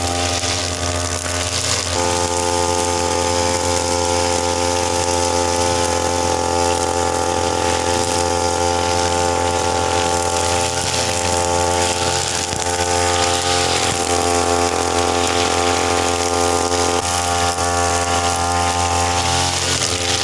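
Uma UM328 brush cutter's small petrol engine running steadily at working speed while its nylon line cuts grass.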